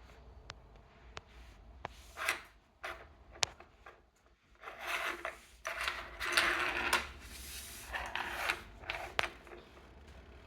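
Handling noise: rubbing and rustling with several sharp clicks, the rustling busier in the second half.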